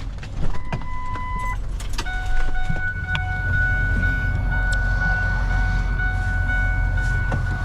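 A vehicle engine runs with a steady low rumble. Early on there is a short electronic beep and a couple of knocks, and from about two seconds in a steady, high electronic warning tone sounds continuously over the engine.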